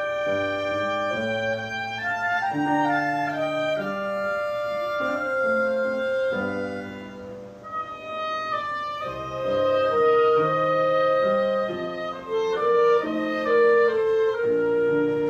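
Small mixed ensemble of woodwinds, brass, violin and piano playing a slow hymn arrangement in held, overlapping lines. It thins out briefly about seven seconds in, then comes back fuller.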